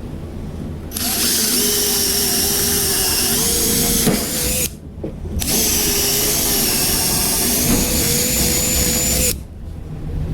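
Electric drill running in two long bursts of about three and four seconds with a short pause between, its pitch stepping up a little near the end of each run.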